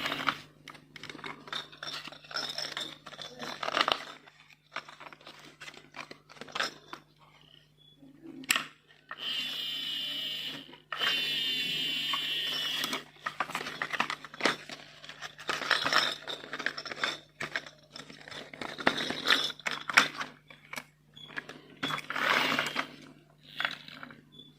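Marbles rolling and clicking along a plastic marble run track, with many short clicks and clatters and two longer continuous rattling runs about halfway through.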